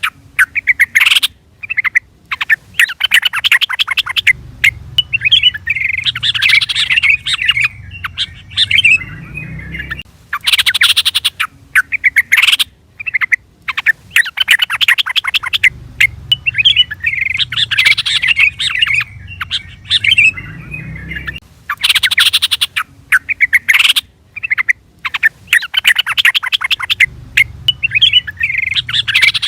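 Yellow-vented bulbul (trucukan) calling in bursts of rapid, bubbly chattering notes. The same sequence of phrases repeats about every 10 to 11 seconds, a looped call recording.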